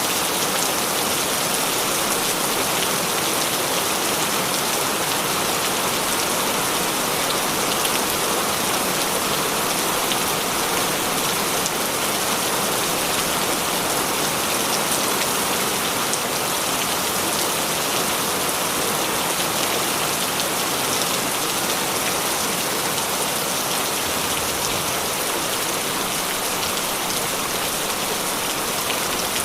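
Heavy rain falling steadily, a dense even hiss of drops spattering on surfaces.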